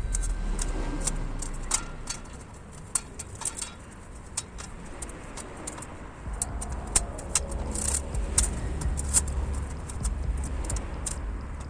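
Metal fire-pit grate being tapped with a hammer to straighten its warp: irregular sharp metallic clinks, a few taps a second at most, over a low steady rumble.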